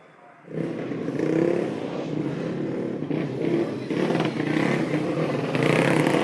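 Motocross motorcycle engine running loudly, cutting in abruptly about half a second in.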